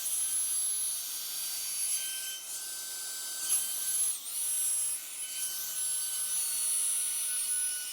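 Revlon hair dryer brush running: the motor's high whine over a steady rush of blown air, with the brush rubbing through hair. The whine dips briefly about four seconds in.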